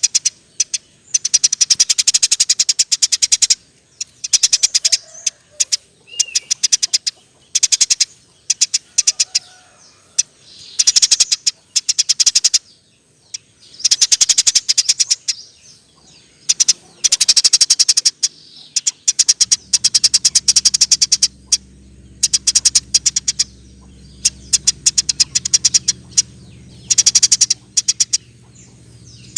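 Eurasian tree sparrow chattering in fast rolling trains of high chirps, each burst lasting a second or two with short pauses between. A faint low hum comes in about two-thirds of the way through.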